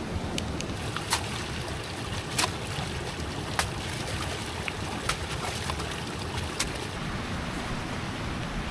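Steady rushing of water, with a sharp click or knock about every second and a half.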